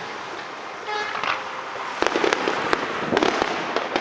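Fireworks display: a noisy hiss of burning and crackling, then a run of sharp bangs and crackles from about two seconds in.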